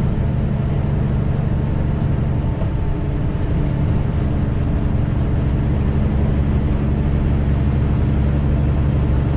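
Straight-piped diesel semi truck engine droning steadily while driving, heard from inside the cab.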